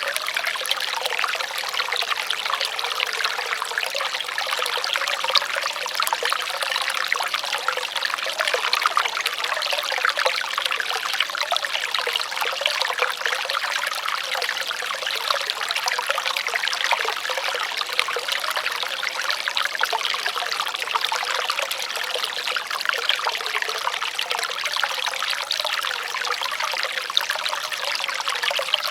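Water trickling steadily in a small stream, with no change throughout.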